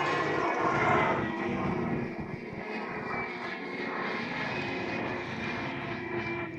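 A-10 Thunderbolt II's twin TF34 high-bypass turbofan engines in flight: a loud jet rush with a steady whine, loudest about a second in.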